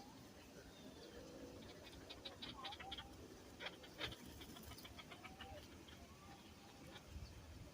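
Faint bird calls: a run of quick high chirps and clicks with a few short sliding calls.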